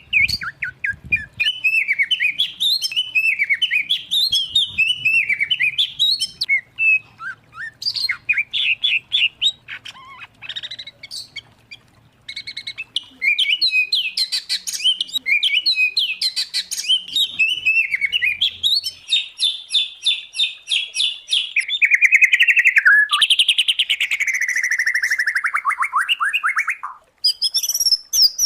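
Songbirds singing continuously in a varied mix of whistled phrases, chirps and fast trills, from a combination song recording of white-rumped shama, oriental magpie-robin and greater green leafbird. Past the middle comes a rapid trill, then a long buzzy, fast-pulsed phrase with falling notes, then a brief pause near the end.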